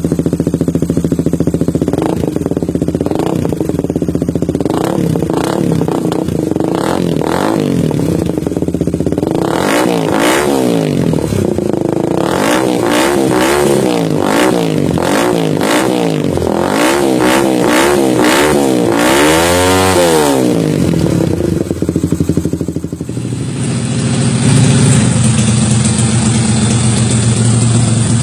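Honda CBR motorcycle with an X-Speed full-stainless racing exhaust, revved while standing. It starts with short throttle blips about once a second, then a run of quicker revs rising and falling in pitch, then settles to a steady idle near the end.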